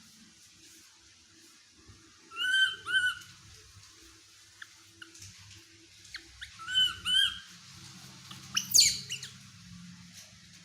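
Baby monkey giving high, thin, squeaky cries: two pairs of short arched calls, then a sharper, louder cry about nine seconds in. These are the sleepy calls a young monkey makes for comfort.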